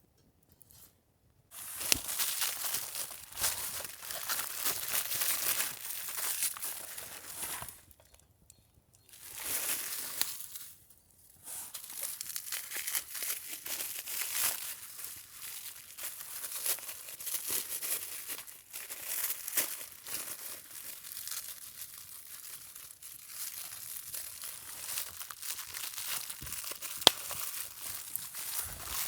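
Crinkling and rustling of something being handled, starting about a second and a half in and going on in bouts with two short pauses, with a sharp click near the end.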